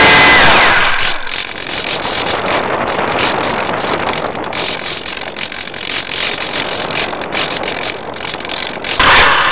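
RC air truck's propeller motor, heard from a camera on its hood: a loud whine that winds down about half a second in, then a low, rough rattling noise of the truck moving at low power, until the motor powers up loudly again near the end.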